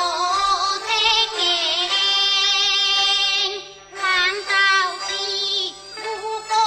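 Teochew opera aria: a high voice sings long, wavering held notes over the accompaniment, with a short break near four seconds in.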